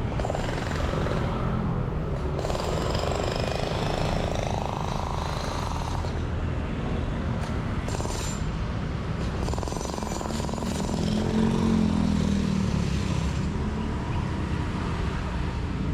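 Motor vehicle engines running close by with a rattling note, one rising in pitch a few seconds in and another passing loudest about twelve seconds in.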